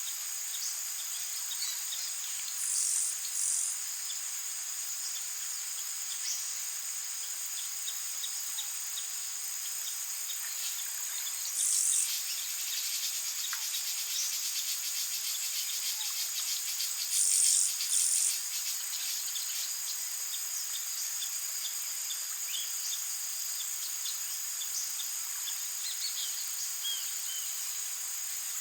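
Tropical rainforest chorus of insects: a steady high-pitched trilling, with a few short, louder insect calls standing out, some in pairs, and scattered faint bird chirps.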